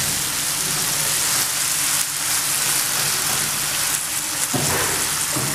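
Chicken strips, onion, tomato and spices sizzling steadily in hot oil in a non-stick frying pan, with a few brief scrapes of a spatula against the pan.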